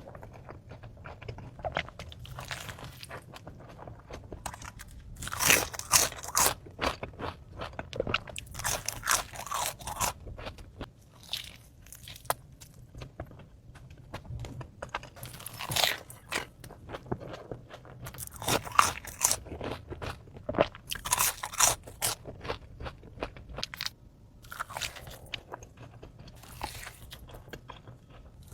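Close-up eating sounds of a smash burger: bites and wet, crunchy chewing in irregular clusters, with a few louder crunching bursts.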